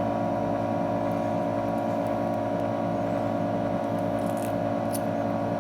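Steady mechanical hum of a heated LCD separator machine's suction pump running, with a few faint scratches near the end.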